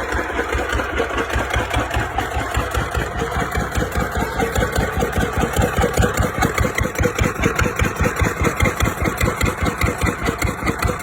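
Lister stationary diesel engine running steadily at idle, with an even beat of a few firing pulses a second.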